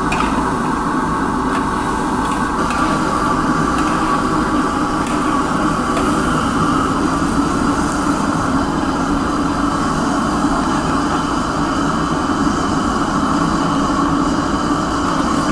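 A loud machine fan running steadily, an even rushing noise with a constant hum and no breaks.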